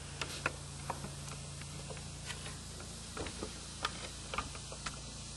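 Scattered light clicks and taps of a camera and tripod being handled and settled on a cart mount. A low steady hum stops about halfway through.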